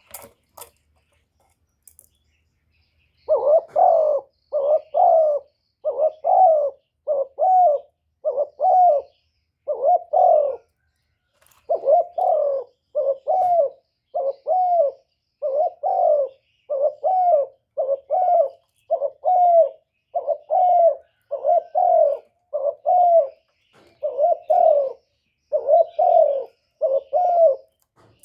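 Spotted dove giving its bowing coo: a long run of short, evenly spaced coos, about one a second, with a brief pause partway through. This is the excited display coo that keepers use to provoke wild male doves.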